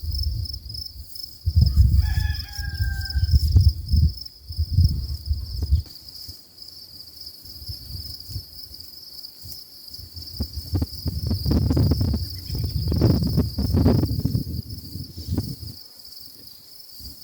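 A rooster crows once, about two seconds in, over a steady high chirring of insects. Two stretches of low rumbling and rustling noise, the loudest sound, come and go early on and again after about ten seconds.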